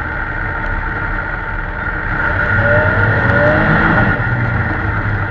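A loud, steady motor running, a little louder from about two seconds in.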